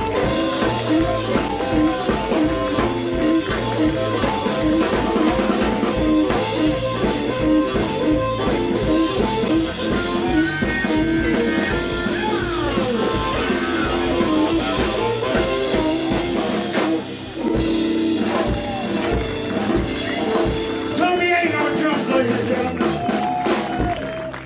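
Live rock band playing an instrumental stretch of the song: guitar over a steady drum kit beat, with guitar lines that glide in pitch about ten seconds in.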